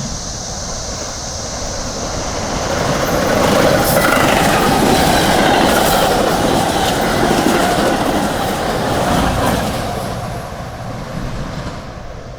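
Inbound Metra commuter train passing at speed, its wheels clattering over the rails, guessed at 45 to 50 mph. It builds from about two seconds in, is loudest through the middle, and fades near the end.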